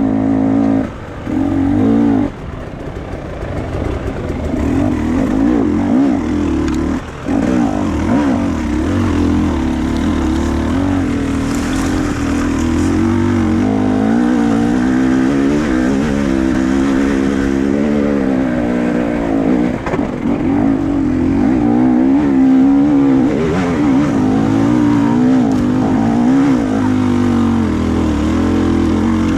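Off-road motorcycle engine running and revving up and down under load as it climbs, its pitch wavering, with brief drops about one and seven seconds in.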